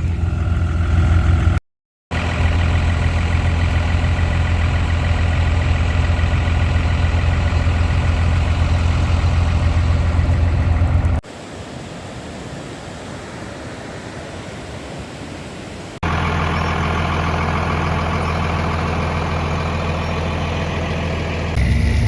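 Diesel truck engine idling steadily, in spliced-together shots: the sound drops out for a moment about two seconds in, turns quieter and thinner from about eleven seconds to sixteen, then the idle is back.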